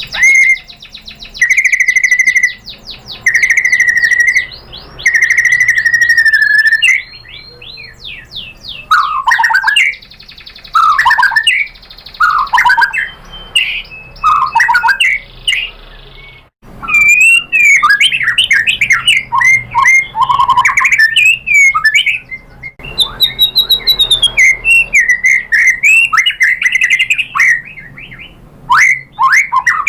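White-rumped shama singing: first a series of drawn-out whistles about a second each, then fast, varied phrases of sweeping notes and trills, with a brief gap about halfway through.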